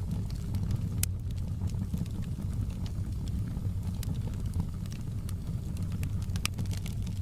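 Logs burning in a fireplace: a steady low rumble from the fire with scattered sharp crackles and pops, the strongest about a second in and twice more later.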